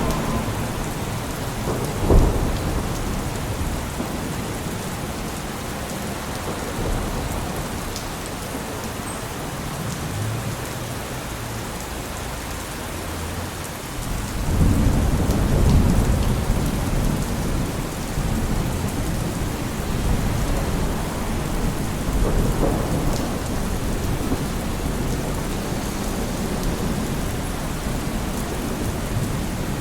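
Steady rain falling, with a sharp crack about two seconds in and a low rumble that swells about halfway through.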